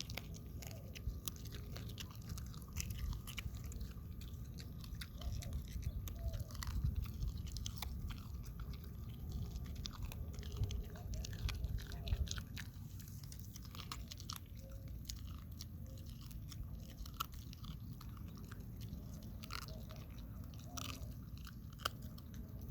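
Dog chewing a freshly killed dove: wet chewing with irregular crunches and snaps as its teeth work through bone and feathers, over a low steady rumble.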